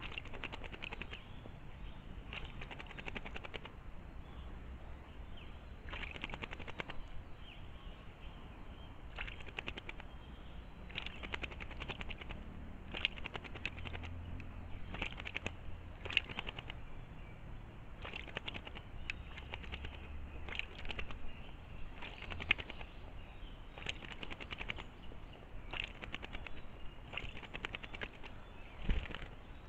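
A small bird bathing in shallow water, fluttering its wings in short splashy bursts that come every second or two.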